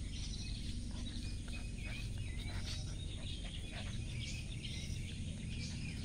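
Birds chirping and twittering throughout, over a steady low rumble.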